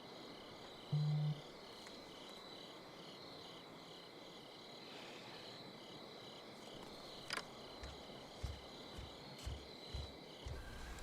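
Crickets chirping steadily, a faint rhythmic night-insect trill repeating a few times a second. A brief low hum comes about a second in, and a few soft low thumps near the end.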